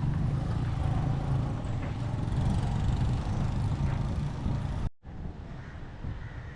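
Street traffic with a motor vehicle engine running close by, heavy in the low end. About five seconds in it breaks off abruptly to quieter street noise.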